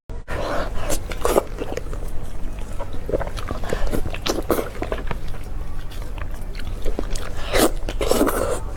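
Close-miked eating: irregular biting and chewing with many wet mouth clicks and smacks.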